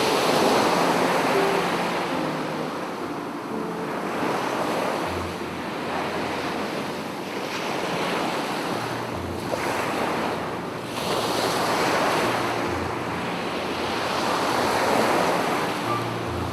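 Sea waves breaking and washing on a beach, surging and falling back in swells every few seconds, with wind buffeting the microphone.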